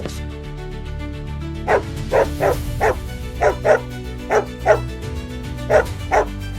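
A dog barking about ten times in short runs and pairs, starting a couple of seconds in, over background music.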